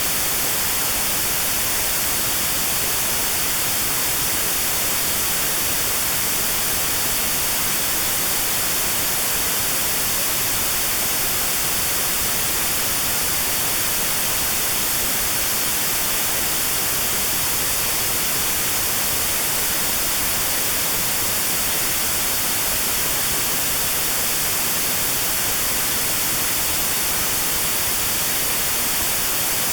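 Steady notch-filtered white noise: an even, unbroken hiss with a narrow band around 4 kHz removed, made as notched sound therapy for tinnitus at that pitch.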